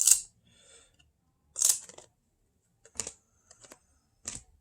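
Cardboard trading cards being slid off a stack and flicked through by hand: two short papery swishes, one at the start and one under two seconds in, then a few sharp card clicks.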